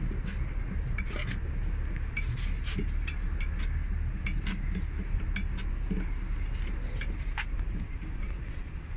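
Irregular metallic clinks and taps, metal tools working on a bus wheel during a tyre change, over a steady low rumble.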